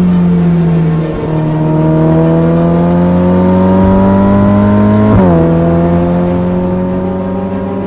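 Ferrari F8 Tributo's twin-turbo V8 being revved: the revs dip about a second in, climb slowly and steadily for about four seconds, then drop suddenly and hold at a lower level, easing off toward the end.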